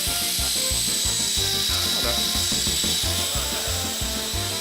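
Walkera 5#10 coaxial RC helicopter in flight: the electric motors and gears whine steadily, with a rattling mechanical chatter from the rotor head.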